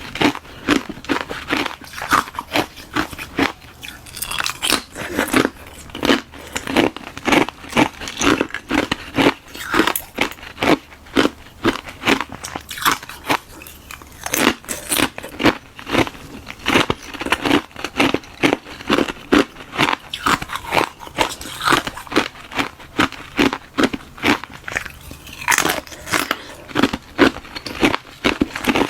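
Close-miked crunching and chewing of frozen ice, from a hollow balloon-frozen ice shell filled with milk-tea ice, bitten and chewed in a rapid run of sharp crunches, several a second.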